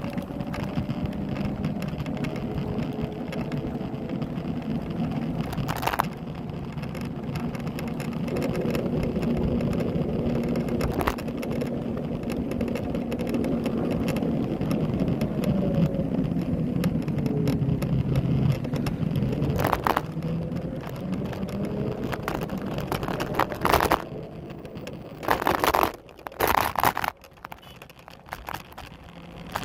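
Xiaomi Pro 2 electric scooter squeaking and creaking, with pitched squeals that rise and fall over a steady mechanical running noise. The noise comes from dry, unlubricated parts. Several louder knocks come near the end.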